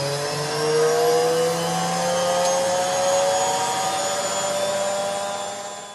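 Washing machine motor and drum accelerating into a spin, a whine that rises slowly and steadily in pitch over a rushing noise, fading near the end.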